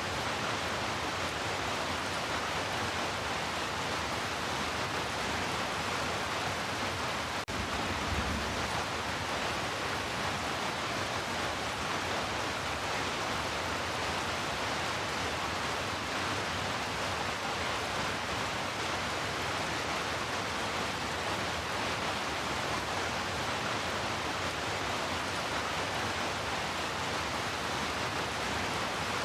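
Heavy rain falling steadily, a dense, even wash of rainfall. There is a brief low thump about eight seconds in.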